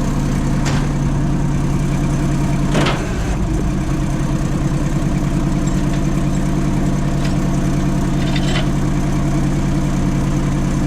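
Vehicle engine idling steadily, with a single sharp knock about three seconds in and a couple of fainter clicks.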